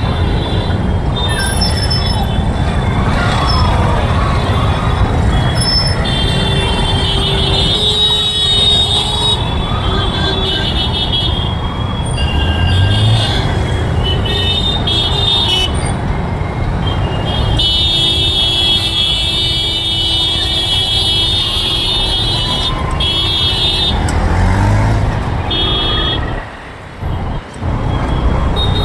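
Busy city traffic heard from a moving motorbike: a steady low rumble of engine and road noise, with vehicle horns honking again and again, including one long honk of several seconds past the middle.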